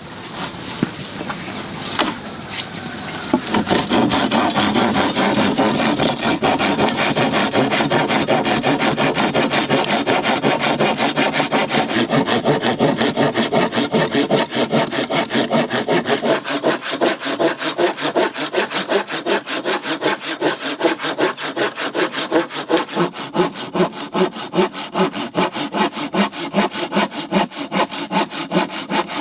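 Hand saw cutting through wood in steady back-and-forth strokes, starting about three seconds in after a couple of knocks. In the second half the strokes come more slowly and stand out more.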